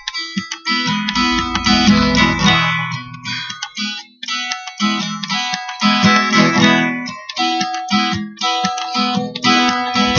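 Acoustic guitar being strummed, repeated chord strokes with short pauses between phrases.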